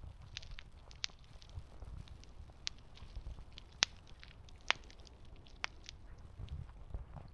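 Campfire crackling: wood burning with irregular sharp pops, the two loudest about four and four and a half seconds in, over a low steady rumble.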